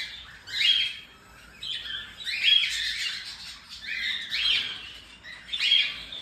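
Baby cockatiels calling in a string of short, harsh chirps, about one or two a second.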